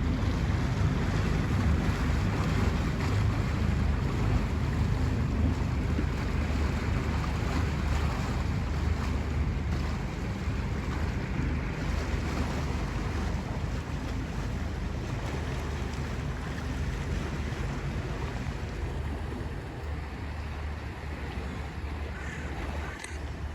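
Steady wind buffeting the microphone over a low rumble, easing off gradually.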